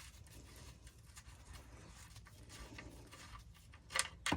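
Faint handling sounds at the oil drain bolt of a Honda Integra's oil pan as it is backed out by hand, with two sharp clicks about four seconds in.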